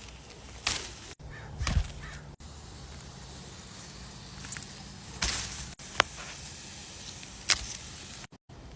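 A few brief rustles and swishes, like the leaves and branches of a fruit tree being handled, over a faint steady low hum.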